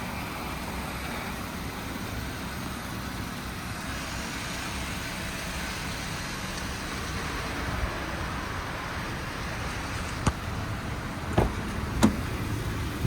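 Steady motor-vehicle noise, a low rumble with a hiss over it. Three sharp knocks or clicks come near the end.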